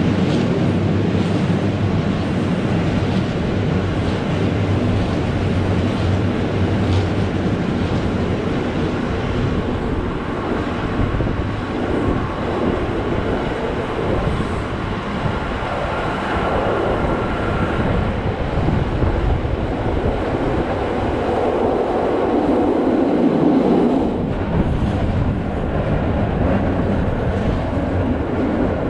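Rhaetian Railway ABe 8/12 electric multiple unit running downhill, heard from a window of the train: a steady rumble of wheels on rail with a low motor hum.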